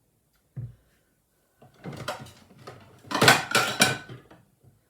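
Crockery and cutlery clattering as a plate is got out and set down, with a soft knock about half a second in and a run of clinks and knocks, loudest in the second half.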